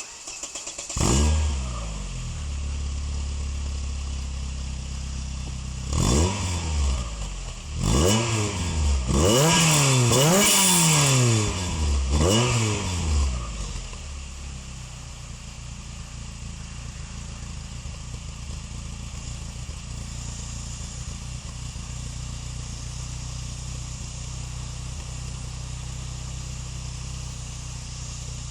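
Renault F7R 2.0 16-valve four-cylinder engine, breathing through a Devil decat pipe and Devil Cup silencer, starting about a second in with a flare of revs and settling to idle. In the middle it is free-revved in several quick blips, one held higher for a couple of seconds, then drops back to a steady idle.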